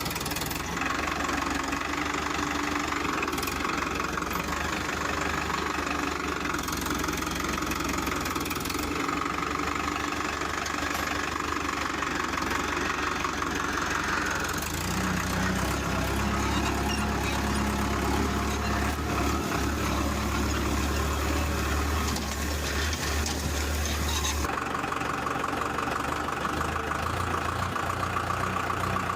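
Mini tractor's engine running steadily. The tone shifts abruptly about halfway through and again near the end.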